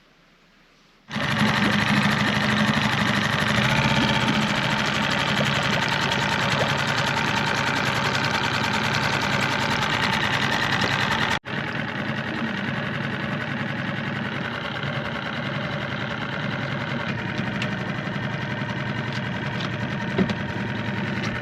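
Suzuki 4 hp outboard motor running steadily, starting suddenly about a second in; it cuts out for an instant about halfway, then carries on slightly quieter.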